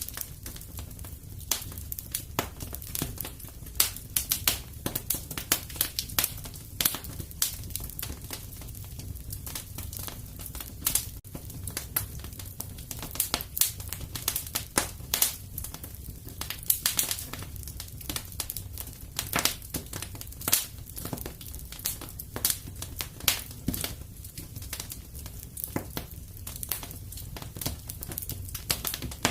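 Fire burning in a fireplace, crackling with many irregular sharp pops over a steady low rumble.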